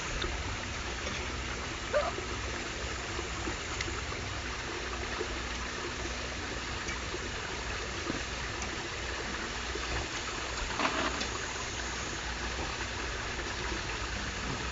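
Mountain stream running over rocks, a steady rush of water, with a couple of brief sharp sounds about two seconds in and near eleven seconds.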